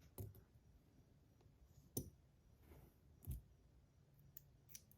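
A few light, scattered clicks and knocks from handling the metal parts of a copper tank fidget, pieces tapping against each other as they are turned and fitted together.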